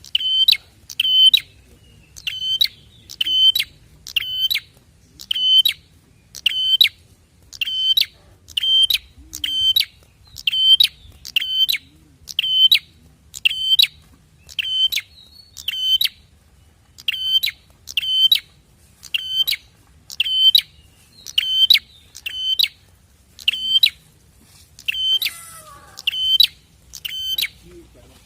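Prenjak (prinia) song played as a lure: a loud, sharp, rattling call repeated at a very even pace of about once a second. A fainter, different bird call slips in briefly near the end.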